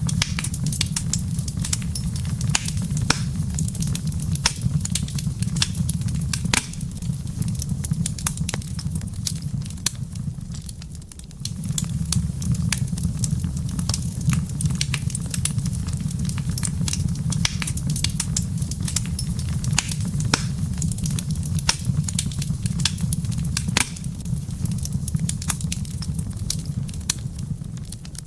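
Wood fire in a fireplace crackling, with many irregular sharp pops and snaps over a steady low rumble. The rumble briefly fades about ten seconds in.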